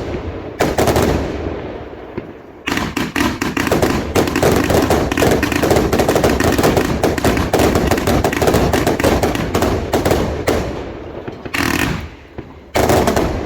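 Fireworks firing in a rapid barrage: a long run of bangs and crackles in quick succession, with a single loud burst about half a second in and two more near the end.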